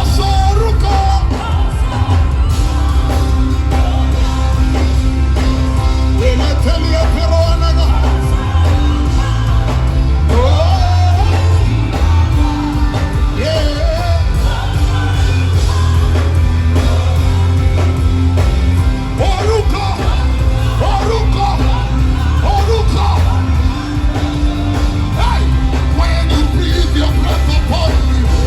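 Live worship band music with heavy sustained bass, voices singing and yelling over it.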